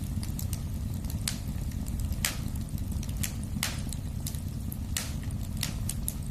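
Wood fire in a fireplace crackling, with a steady low rumble under irregular small crackles and louder snaps about every second.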